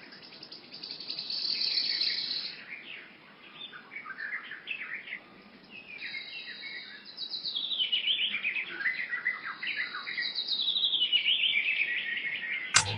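Small birds chirping and twittering, with many short, quick calls and a few rapid runs that fall in pitch.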